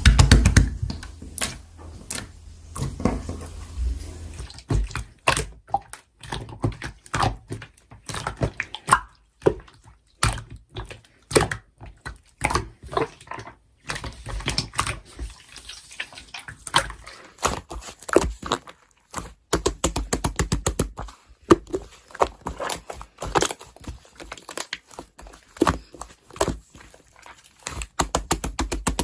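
Slime being squished and poked by hand: irregular runs of small wet clicks and pops, many to the second.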